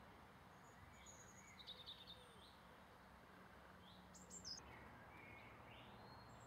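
Faint wild birdsong over a low steady hum: a few short chirps and warbled phrases, the clearest about one and a half seconds in and again around four seconds in.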